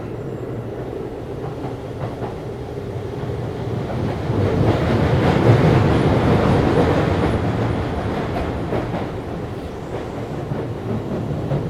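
Running noise of a Keisei 3500-series electric train heard from inside its motor car MoHa 3514: steady wheel and motor noise with faint clicks over the rail joints. It grows louder about halfway through, then eases off again.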